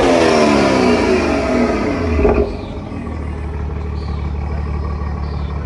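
A car engine revved high, its revs falling away over the first two seconds or so, then settling into a steady low idle.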